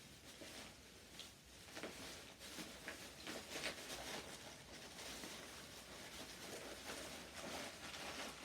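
Faint, scattered rustling and light knocks of someone rummaging through bags and small items.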